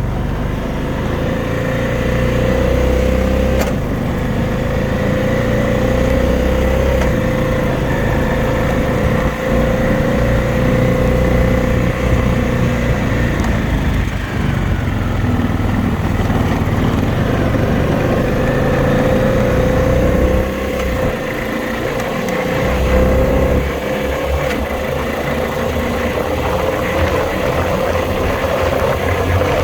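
2020 Honda Rubicon 520 ATV's single-cylinder engine running steadily under way, with a constant whine over its rumble. It eases off briefly about halfway through and again about two-thirds in.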